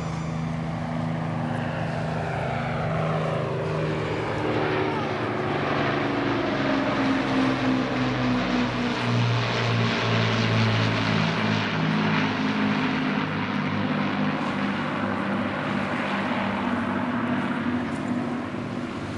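Propeller-driven aircraft flying past, its engine note sliding down in pitch as it passes, loudest about halfway through.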